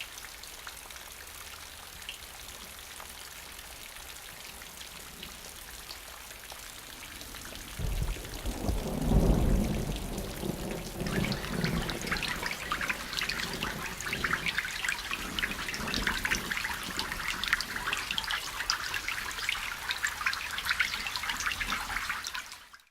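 Rain falling: a steady soft hiss, a low rumble about eight seconds in, then from about eleven seconds a dense, louder patter of drops splashing on surfaces until it cuts off suddenly.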